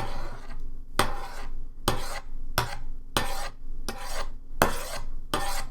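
A utensil scraping against a bowl in about eight repeated strokes, each a sharp tap followed by a short scrape.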